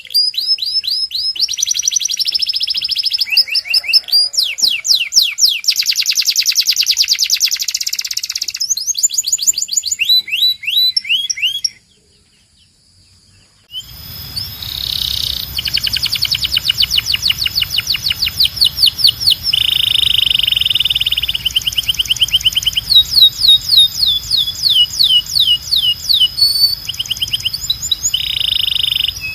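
Domestic canary singing in long runs of fast trills and rapidly repeated notes. The song breaks off about twelve seconds in for two seconds of near silence, then resumes over a low hum with a faint steady high tone.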